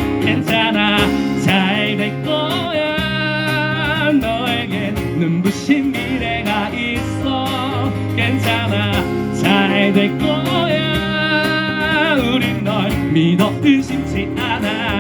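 A song with a singing voice over acoustic instrumental accompaniment, including guitar, with held, wavering vocal lines.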